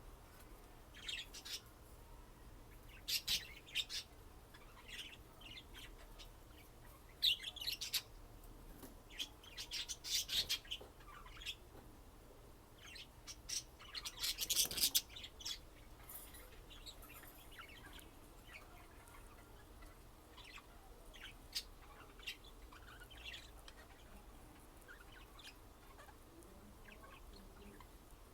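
Budgerigars chirping in short, high calls, most frequent in the first half and growing sparser later.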